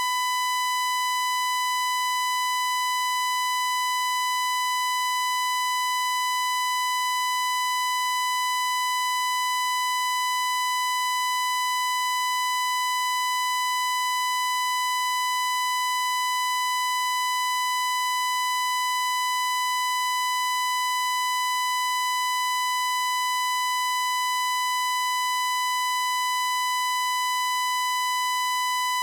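A continuous, high-pitched electronic tone, held at one unchanging pitch and level, with a hard, buzzy edge from its many overtones.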